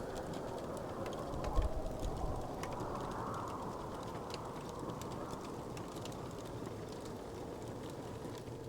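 Wood fire crackling, with many small scattered pops over a steady rushing noise, and a soft low thump about one and a half seconds in.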